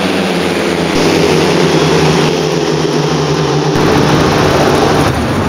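Speedway motorcycles racing: 500 cc single-cylinder methanol engines running loud and steady. The sound shifts abruptly a few times, as the footage is cut together.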